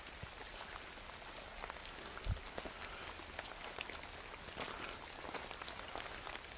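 Rain falling, with many separate drops ticking irregularly, and a single dull thump a little over two seconds in.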